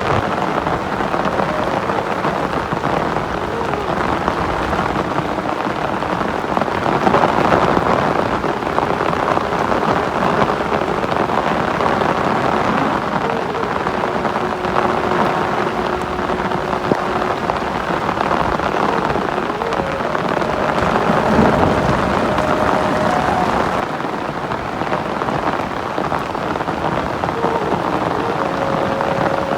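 Heavy rain falling steadily on a surface, a dense, even hiss with no break.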